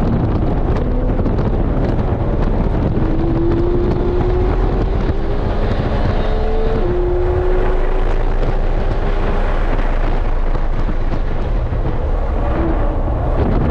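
2019 Porsche 911 GT3's naturally aspirated 4.0-litre flat-six accelerating, heard from inside the cabin, its pitch climbing steadily, dropping sharply about seven seconds in at a quick upshift, then climbing again. Heavy road and tyre rumble runs underneath.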